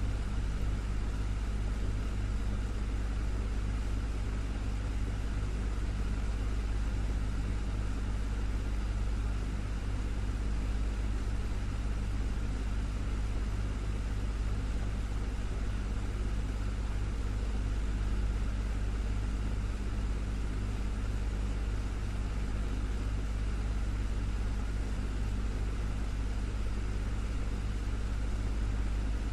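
Desktop fan running steadily: a constant low motor hum under an even whoosh of moving air, with no change in speed.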